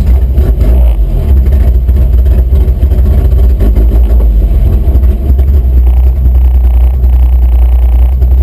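Pulling truck's engine running with a loud, steady, deep rumble, shortly after being started.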